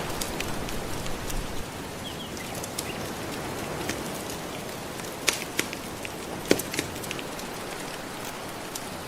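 Steady wash of gentle ocean waves, with a wood fire crackling over it: scattered sharp pops and snaps, the loudest a few in the second half.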